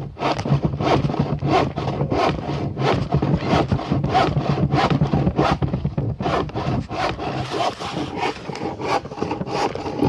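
A hand tool worked back and forth on wood, about three strokes a second.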